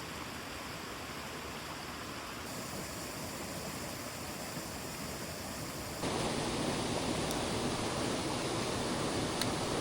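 Rushing water of a mountain stream, a steady rush that jumps louder about six seconds in.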